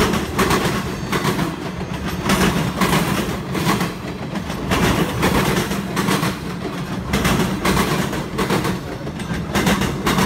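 Freight train cars rolling past, their wheels clacking over the rail joints in regularly repeating groups of clicks over a steady rumble.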